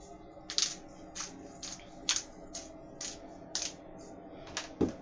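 Hand-twisted pepper grinder grinding peppercorns: a run of short crunching grinds at about two a second, with a sharper knock near the end.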